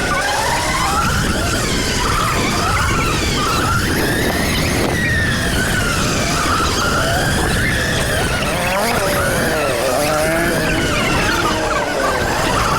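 Electric dirt bike's motor whining while riding, its pitch rising and falling smoothly with the throttle, over steady wind rumble on the microphone.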